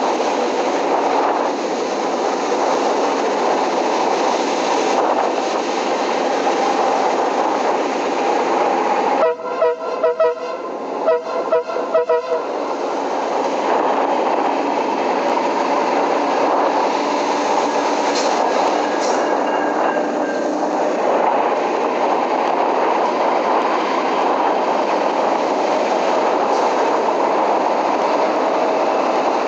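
A train running with a steady rumble and clatter of wheels on rail. About a third of the way through, its horn sounds in a quick run of short blasts lasting about three seconds.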